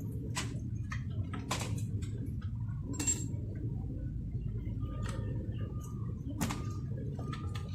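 Scattered light clicks and knocks of hard parts being handled, some with a short ring, over a steady low hum.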